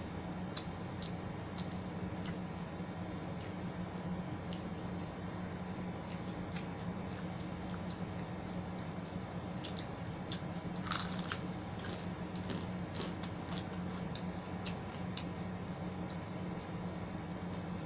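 A person eating close to the microphone: wet chewing with scattered sharp mouth clicks and bites, and a louder crunchy bite about eleven seconds in. A steady low hum runs underneath.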